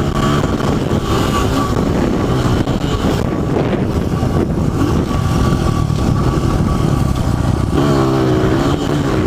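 Small dirt bike engine running under throttle while riding, its pitch rising and falling with the throttle, most clearly near the start and again near the end.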